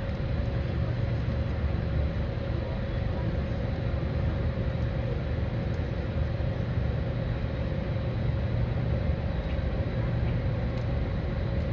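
Steady low rumble of a train heard from inside the coach as it rolls slowly along the platform, with a steady hum running through it.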